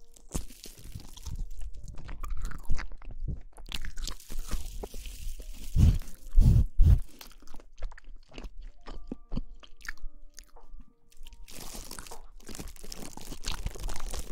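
Crackly rustling and scratching close to the microphone, dense and uneven, with a few low thumps around the middle. Faint steady musical tones sit underneath.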